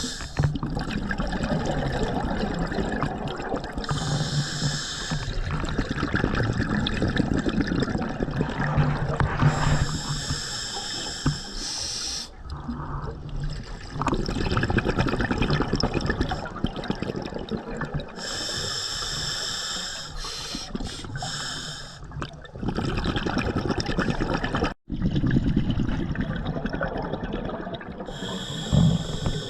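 Scuba diver breathing through an open-circuit regulator underwater: a hissing inhale about every eight seconds, each followed by a long gurgle of exhaled bubbles.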